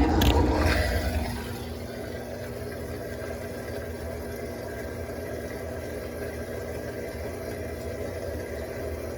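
Electrolux Turbo Compacta (LTC07) washing machine in its turbo spin: a louder rush of motor and water noise that falls away about a second in, then a steady motor hum.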